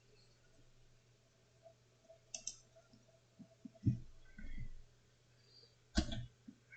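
A few computer mouse clicks and dull knocks of handling at the desk, over a faint low steady hum.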